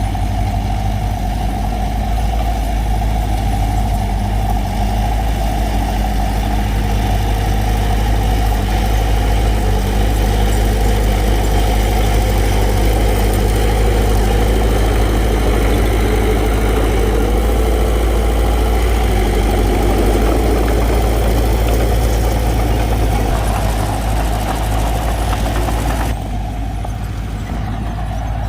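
Diesel engine of a bulldozer or dump truck running steadily under load. Near the end the higher part of the sound suddenly drops away while the low engine note carries on.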